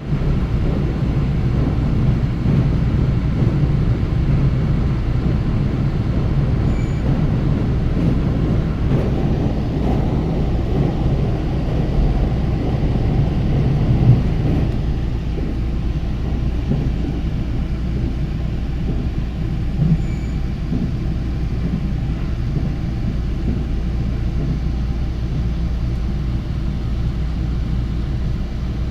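Train running along the track, heard from inside the carriage: a steady low rumble that eases slightly about halfway through, with a couple of light knocks.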